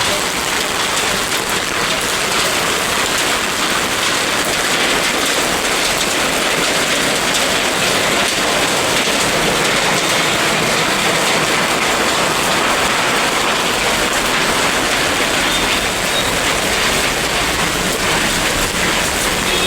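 Steady heavy rain falling and splashing on surfaces.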